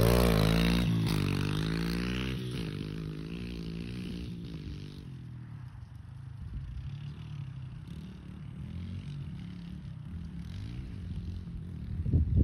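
Pit bike engines revving hard off the start, their pitch climbing and dropping with each shift as they pull away and fade into the distance. A fainter engine sound carries on, then comes a louder burst near the end.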